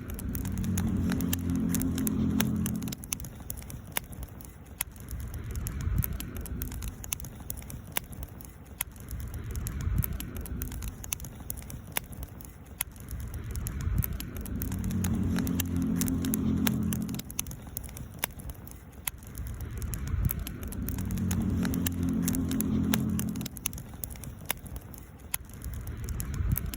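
Wood campfire crackling, with frequent sharp pops and snaps. A low steady hum rises and fades three times underneath, at the start, about midway and toward the end.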